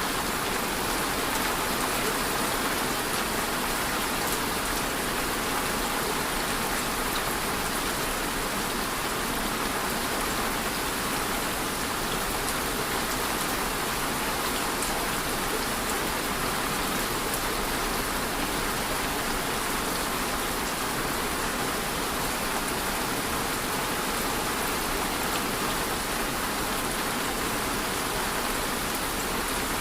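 Steady rain falling, an even wash of noise with scattered drop ticks on a surface.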